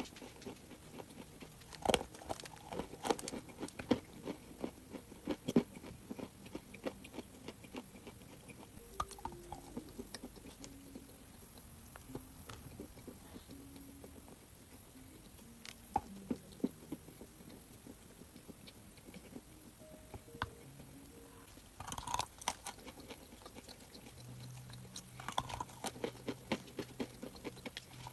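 Crunchy chalk being bitten and chewed close to the microphone: sharp crackling crunches in bursts, thinning out in the middle and picking up again near the end.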